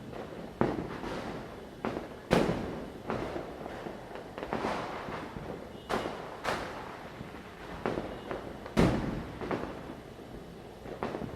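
Firecrackers bursting one after another at irregular intervals, a dozen or so sharp bangs with echoing tails, some near and some farther off. Two bangs stand out as the loudest, one a couple of seconds in and one near the end.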